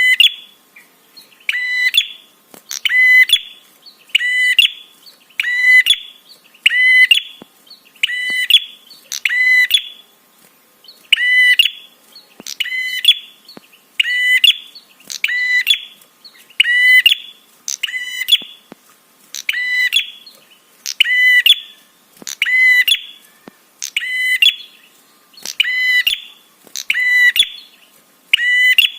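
Prenjak (prinia) repeating a sharp, ringing chirp over and over, roughly once a second at a steady pace.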